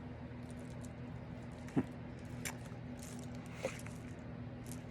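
A few short, soft taps and clicks, the sharpest about two seconds in, over a steady low hum.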